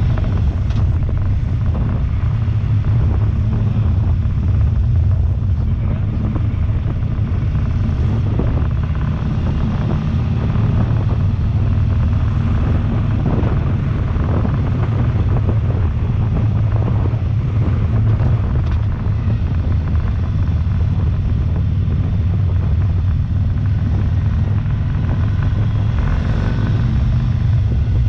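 Harley-Davidson V-twin engine running steadily at cruising speed, heard from the bike itself, with wind noise over the microphone.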